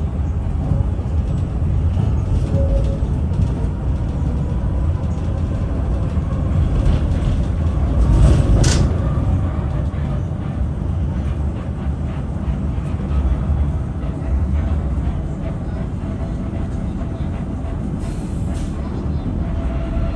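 Tram running on its rails, heard from on board: a steady low rumble with a brief high-pitched burst about eight seconds in.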